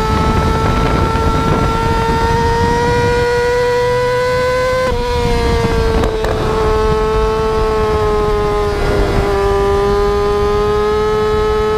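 Motorcycle engine held at high revs through a wheelie: a steady high-pitched whine that climbs slowly, drops about five seconds in, and dips again near nine seconds.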